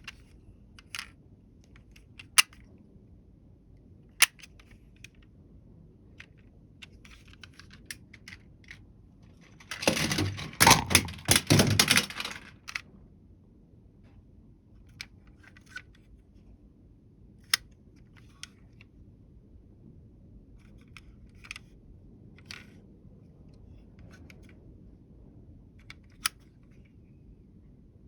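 Small hard toy vehicles being handled, giving scattered sharp clicks and taps, with a dense burst of clattering about ten seconds in that lasts a couple of seconds.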